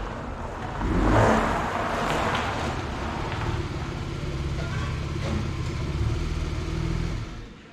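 Vauxhall Omega MV6's 3.0 V6 engine running as the car drives slowly into the garage, louder for a moment about a second in. The engine stops near the end.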